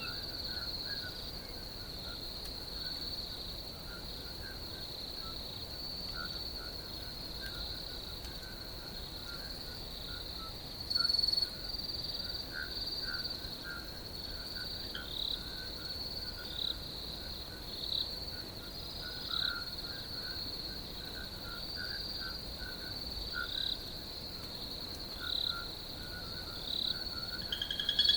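Crickets trilling steadily in a high, continuous chorus, with scattered shorter chirping calls lower in pitch. A brief louder call cuts in about eleven seconds in, and another near the end.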